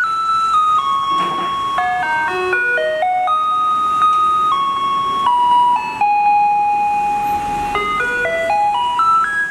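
Taiwanese garbage truck's loudspeaker playing its electronic chime melody: slow falling notes, quick runs up and down, one long held note, then a rising run near the end.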